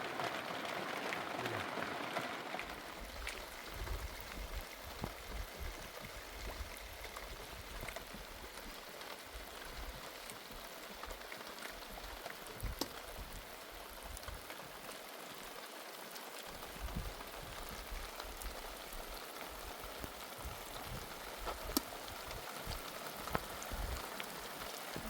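Steady rain falling, with scattered louder drops ticking and a low rumble that comes and goes; a little heavier in the first couple of seconds.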